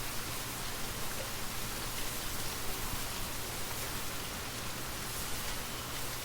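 Gentle rain falling steadily, an even hiss of many small drops.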